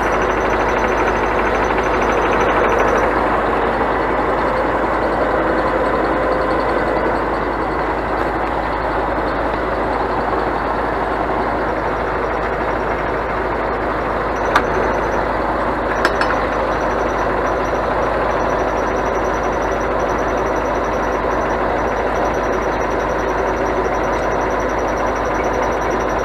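Scania truck running with a steady drone, with two sharp clicks about halfway through.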